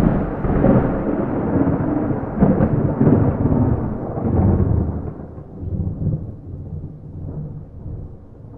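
Thunder rolling and rumbling, loud, with a couple of swells in the first half, then slowly dying away.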